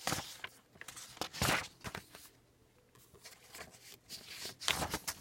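Paper rustling in a few short bursts, about a second and a half apart: book pages being handled and turned.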